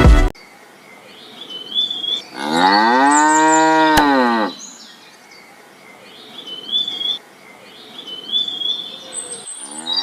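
Cow mooing: one long call of about two seconds that rises and then falls in pitch, with a second call starting near the end. Small birds chirp now and then throughout, and there is a single sharp click at the end of the first moo.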